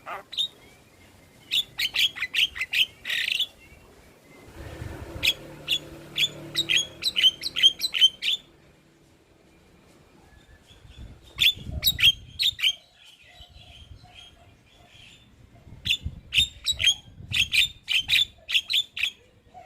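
Javan mynas calling in bursts of rapid, sharp chirps, with pauses of a few seconds between the bursts.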